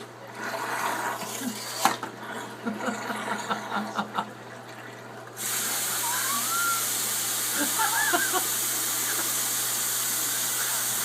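Small splashes and clicks in water, then a steady hissing rush that starts suddenly about five seconds in: a hair dryer running while submerged in water.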